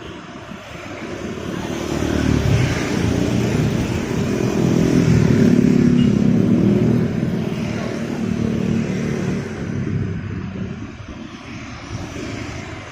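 Street traffic: vehicle engines passing by, building up and loudest from about two to seven seconds in, then easing off.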